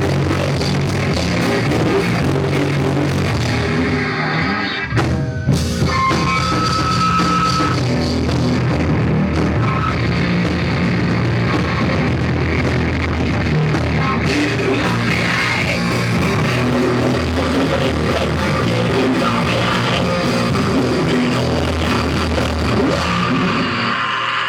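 Rock band playing live with drum kit and guitars, loud and poorly recorded, with a brief break about five seconds in.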